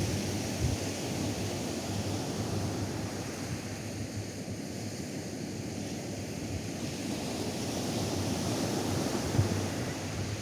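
Atlantic surf washing onto a sandy beach, a steady wash that eases a little midway and swells again near the end, with wind rumbling on the microphone.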